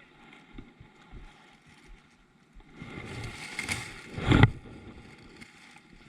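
Movement aboard a fishing kayak: about a second and a half of rustling that ends in a sharp, loud knock.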